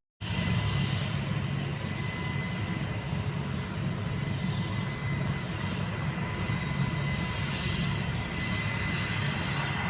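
Aircraft turbine engine running steadily, with a thin high whine over a low rumble.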